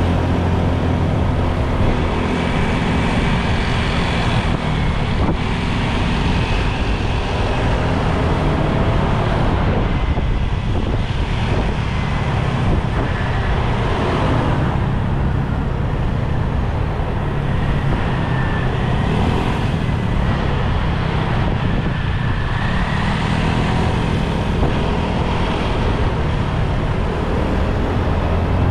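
Motorbike engine running steadily while riding, with road noise and wind rushing over the microphone.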